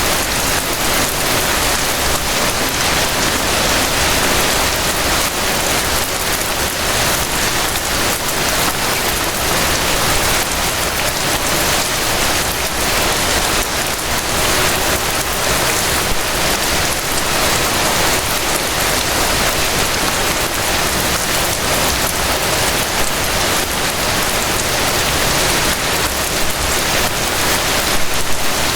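Steady rain falling, a dense even hiss of many drops.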